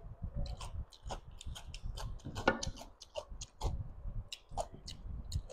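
Close-miked chewing with the mouth closed: a run of soft, irregular wet clicks and smacks, several a second.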